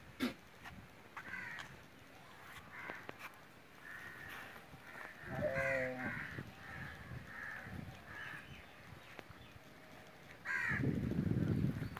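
Birds calling outdoors: a series of short, falling calls about once a second, one of them louder than the rest about halfway through. Near the end a loud low rumbling noise comes in over them.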